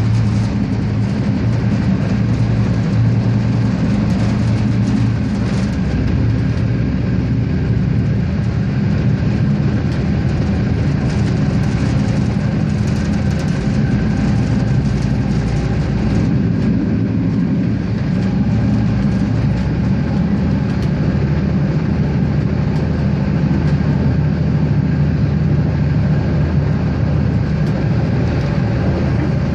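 Regiosprinter diesel railcar with its engine running steadily: a low, even drone and hum of the train.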